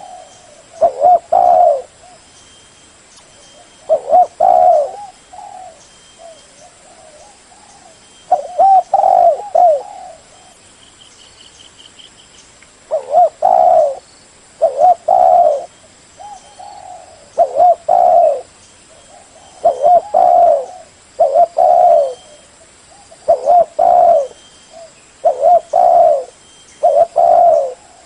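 Spotted dove cooing: loud, low coo phrases repeated every one to three seconds, with a longer pause a few seconds in.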